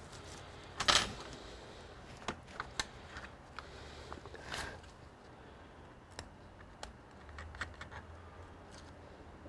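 Irregular light clicks and taps of small computer parts and tools being handled, with a louder knock about a second in and a short rustle about halfway through.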